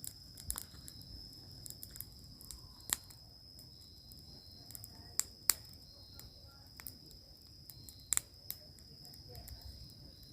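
Wood bonfire crackling with a few sharp pops, about four loud ones, over a continuous high-pitched trill of crickets.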